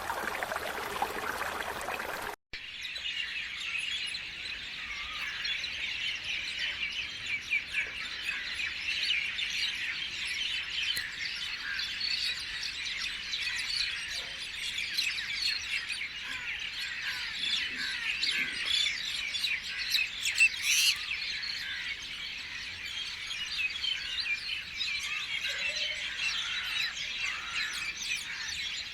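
A rushing, water-like noise that cuts off abruptly after about two seconds, giving way to a dense chorus of many birds chirping and squawking together, with one sharp snap about two-thirds of the way through.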